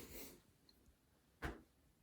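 Near silence, with a short rustle at the start and a single sharp click about one and a half seconds in.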